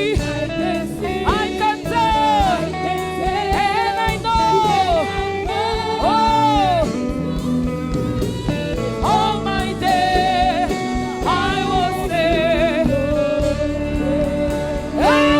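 Gospel worship singing: a solo voice sings long, sliding phrases with vibrato over a sustained instrumental accompaniment.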